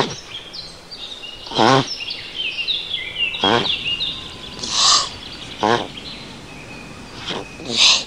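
Birds calling: quick high chirps and short sweeping notes throughout, with a louder wavering, trill-like call repeated about seven times at uneven intervals.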